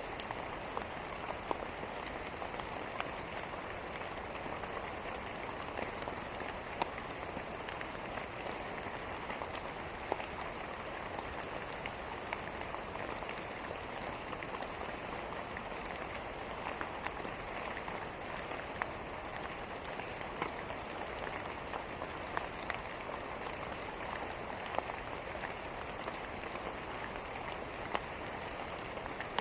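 Steady rain falling on a surface, an even patter with many individual drops ticking sharply through it.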